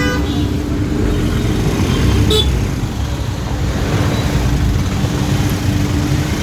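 Street traffic: car engines running with a steady low hum and rumble, and one brief sharp high sound about two seconds in.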